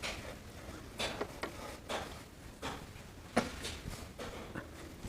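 Close-miked eating sounds from a mouthful of paneer curry and roti: faint, irregular soft clicks and wet chewing noises.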